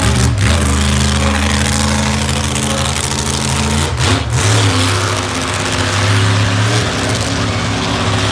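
Truck engine running steadily, with a brief knock or rattle about four seconds in.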